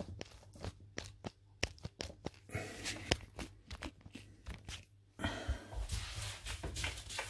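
Latex-gloved hands working sticky bread dough into bun balls: a string of short sticky clicks and tearing sounds, then a steady rustling from about five seconds in.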